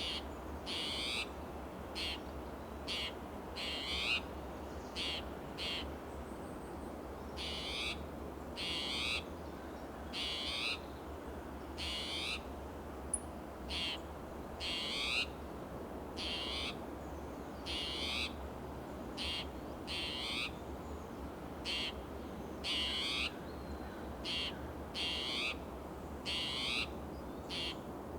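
Spotted towhee giving its harsh, mewing alarm calls over and over, about one call a second, some short and some drawn out into rising sweeps: the sign of an agitated, territorial bird.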